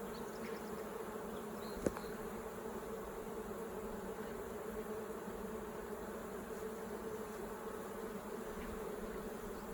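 Honey bees buzzing around an open hive, a steady hum, with one sharp click about two seconds in.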